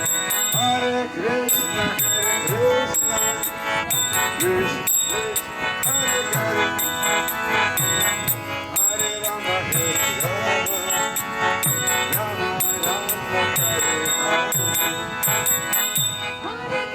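Street kirtan music: karatalas (small hand cymbals) clashing in a steady beat over a mridanga drum whose bass strokes drop in pitch about twice a second, with sustained held notes and chanting voices.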